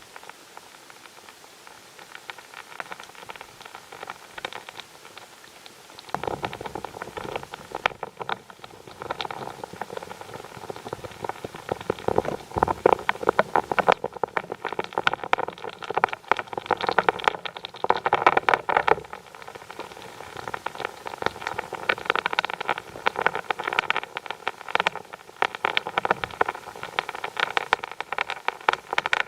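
Drilling rig working at a borehole, a fast continuous rattling clatter over a steady machine hum. It grows louder about six seconds in.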